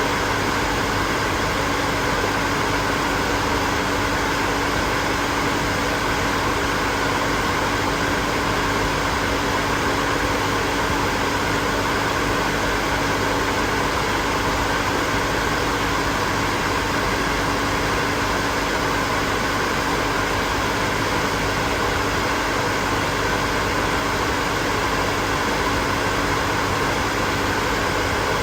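Hair dryer running continuously: a steady rushing blow of air with a constant motor hum, unchanging throughout.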